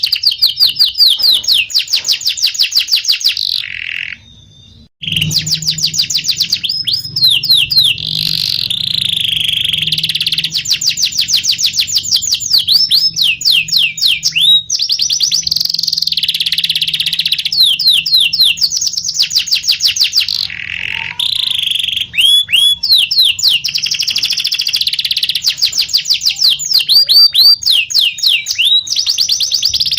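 Domestic canary singing a long, continuous song of fast rolling trills and rapid repeated chirping phrases, high-pitched. There is a short break about four seconds in.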